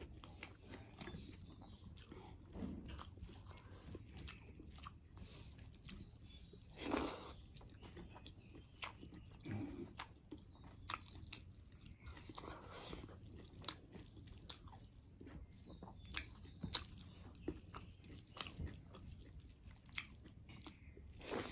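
Close-up chewing and mouth smacking of a person eating rice and fish curry by hand: a steady stream of small mouth clicks with a few louder bursts scattered through.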